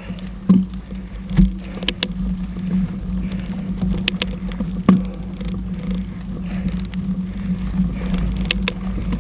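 Mountain bike riding over a rough trail: a steady rumble and hum with sharp rattles and knocks as the bike goes over bumps.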